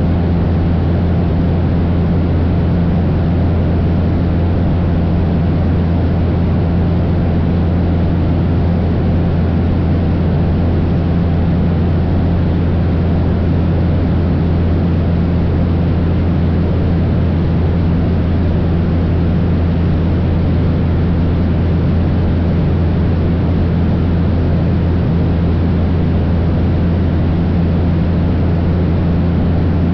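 Cessna 172 single-engine piston airplane in steady cruise flight: a loud, unchanging engine and propeller drone with a strong low hum.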